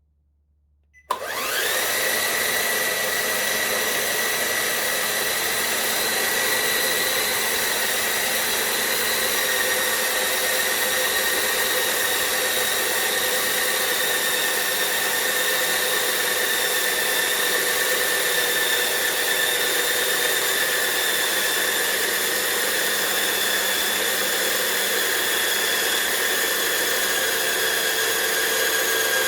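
Small geared electric motor switched on about a second in, then running steadily with a high whine, its pitch sinking slightly over time.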